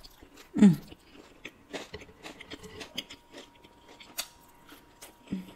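Close-miked chewing of a fried tilapia fish taco: a run of small crunches and wet mouth clicks. About half a second in there is a short hum from the eater that falls in pitch.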